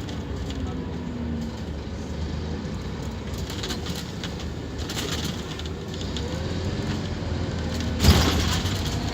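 Scania K230UB Omnilink bus running under way: a steady low engine rumble with faint tones that slowly rise and fall. A sudden loud knock comes about eight seconds in.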